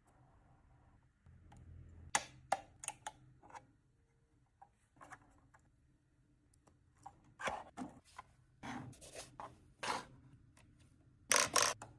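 Scattered light clicks and knocks of a small plastic-bodied RC model truck being handled, coming in short clusters with pauses between, the last and loudest cluster near the end.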